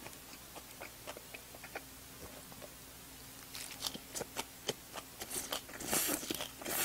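Close-up mouth sounds of eating a big mouthful of chive kimchi: faint wet clicks at first, then louder chewing and sucking-in of the chive strands from about three and a half seconds in.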